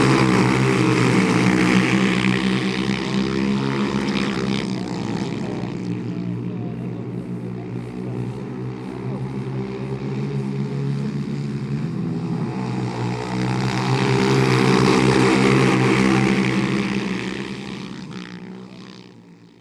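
Several small pit bike engines running hard on a flat track, louder twice as the bikes come close, then fading out near the end.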